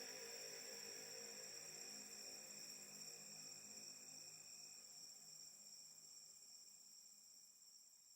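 Near silence: a faint, steady high-pitched whine with a low hum beneath, slowly fading out.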